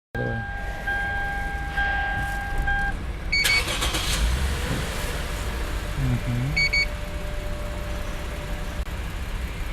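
A car's electronic chime sounds for about three seconds, then the engine is cranked and starts about three and a half seconds in and settles to a steady idle. Two short electronic beeps come near the middle.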